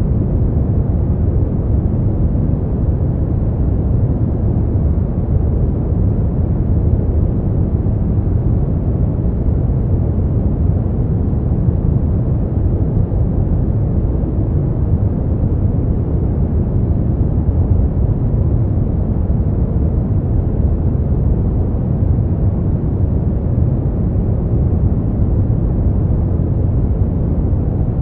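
Steady, unchanging noise track played for sleep, deep and rumbling with little treble, with no breaks or separate sounds.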